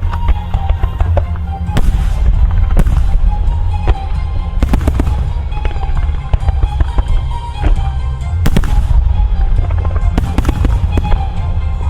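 Music starmine fireworks: a rapid barrage of aerial shells bursting with many sharp bangs and crackles over a continuous low boom, with the show's music playing over the loudspeakers. Several louder bursts stand out, about two, three, five, eight and a half and ten seconds in.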